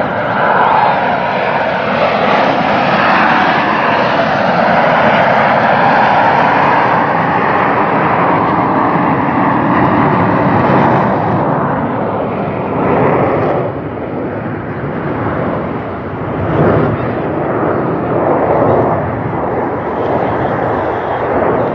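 Jet aircraft flying past: loud, steady jet engine noise for about the first half, then fading and swelling unevenly.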